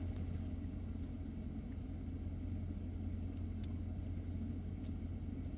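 Steady low hum of a car running at idle, heard from inside the cabin, with a few faint light clicks.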